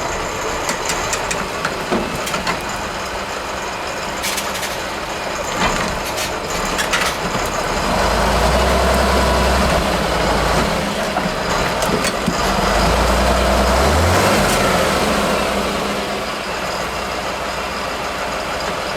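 Heavy off-road trial truck's diesel engine running, then revving hard under load twice in the middle, pitch climbing at the end of the second push before dropping back. A few sharp knocks sound in the first half.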